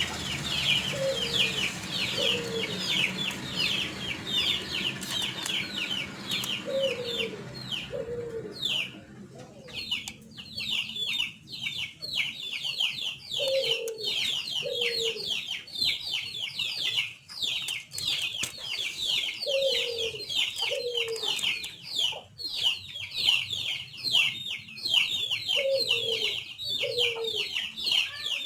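Birds chirping: a fast, continuous stream of short, high, downward-sliding chirps, with a pair of lower falling calls about every six seconds.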